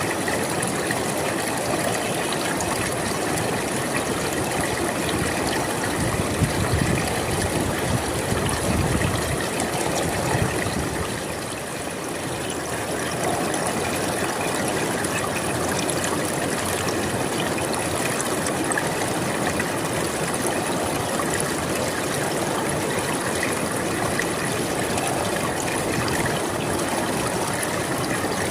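A river flowing steadily, a continuous rush of water that swells a little between about six and ten seconds in and dips briefly around twelve seconds.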